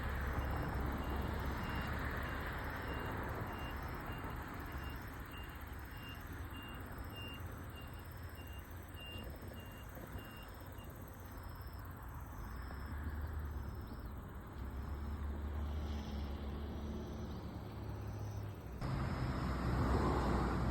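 Outdoor ambience: a steady rumble and hiss like road traffic, with a faint high beep repeating about twice a second through the first half.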